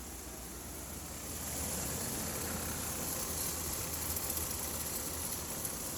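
2008 Dodge Ram pickup's engine running steadily with the transmission in drive, getting a little louder about a second and a half in.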